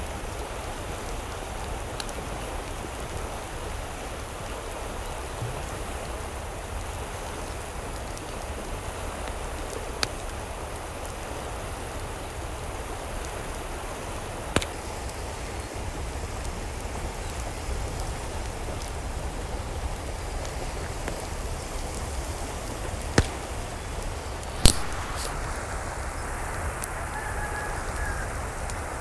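Steady hiss of water, with a few sharp taps scattered through it, the loudest near the end.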